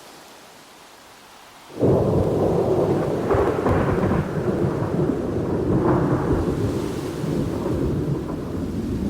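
Thunder: a clap breaks in suddenly about two seconds in over a faint steady hiss, then rolls on as a long, heavy rumble with a couple of swells.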